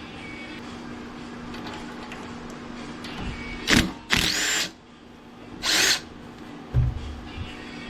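Handheld power drill/driver run in three short bursts, its motor pitch sweeping up and down, backing out screws, followed by a low thump near the end.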